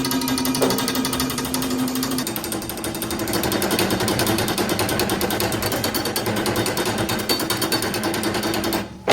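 A heater-rod factory machine running with a rapid, hammer-like rattle over a steady hum. The hum steps up in pitch about two seconds in, and the machine stops abruptly near the end.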